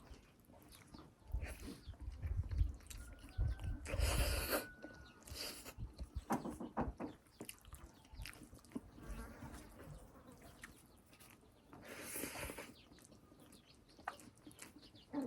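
Close-up mouth sounds of eating buffalo-foot soup with rice: chewing and lip-smacking clicks throughout. There are two longer, noisier bursts about four and twelve seconds in.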